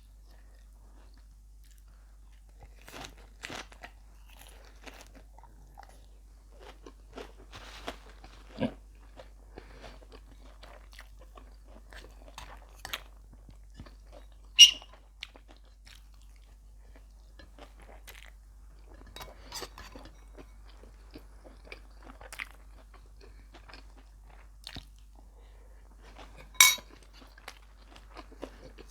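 Someone eating beef laab with rice and fresh vegetables: chewing and crunching with scattered small clicks, and two sharp, loud snaps, one about halfway and one near the end.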